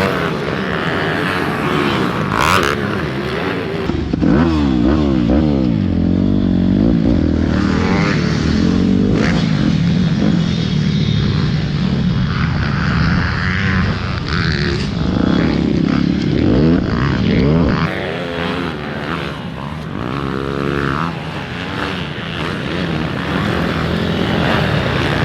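Pit bike engines racing, revving up and down repeatedly as the riders open and close the throttle.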